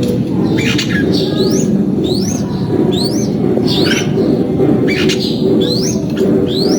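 Red-whiskered bulbul calling: a run of short, quick notes that sweep upward in pitch, about one a second, over a dense low background noise.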